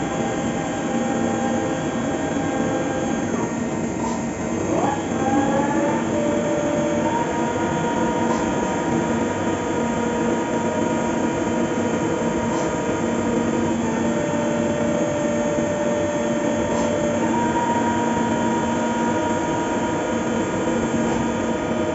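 Fagima Jazz M five-axis CNC milling machine cutting a part: a steady machining whine over a dense cutting hiss. Its tones step to new pitches several times as the toolpath changes.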